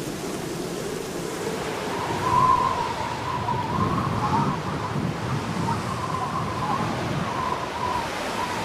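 Winter wind blowing steadily, with a thin wavering whistle that comes in about two seconds in.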